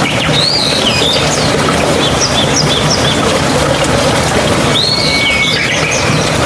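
Stream water running steadily, with a bird calling over it: a sweeping call about half a second in, a quick series of short notes around two seconds, and another sweeping call near five seconds.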